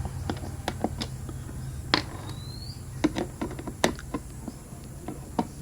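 Irregular sharp clicks and taps of plastic and metal parts being handled as an electric kettle's base is opened up, with small loose nuts rattling inside it.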